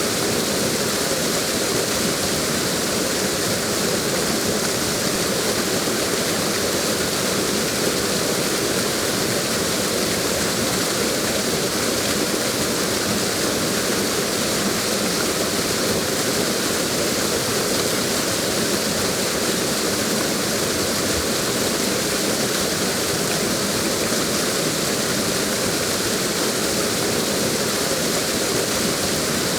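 Waterfall: steady, unbroken rushing water.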